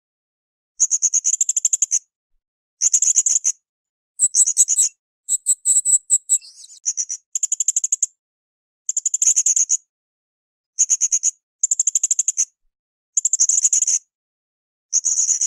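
Blue-crowned hanging parrot (srindit) calling in bursts of fast, high-pitched chattering, each about a second long, repeated every second or two, with a more varied phrase a few seconds in.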